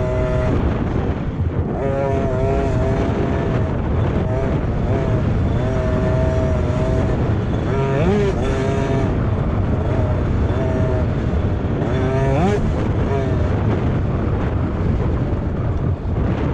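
Motocross dirt bike engines running hard, their pitch holding, dipping and climbing with throttle and gear changes, with sharp rising revs about 8 and 12 seconds in.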